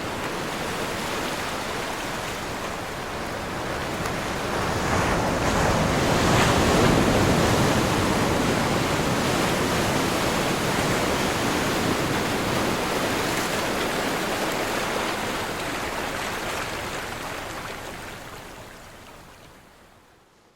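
Ocean waves crashing on a shore: a steady rush of surf that swells to its loudest about seven seconds in, then slowly fades away near the end.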